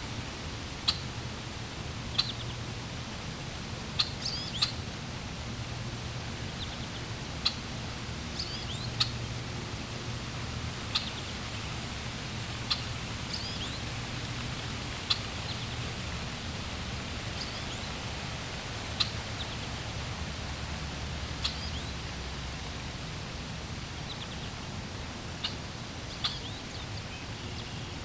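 Steady rush of flowing water, with birds giving short, sharp high chirps every second or two.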